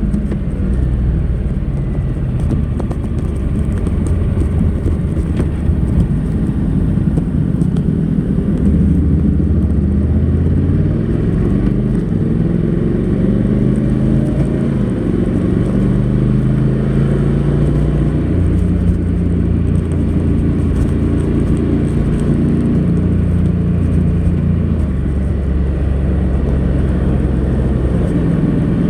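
Honda NC700X's parallel-twin engine running through its stock exhaust while riding, its pitch rising and then dropping in steps as the DCT gearbox changes gear.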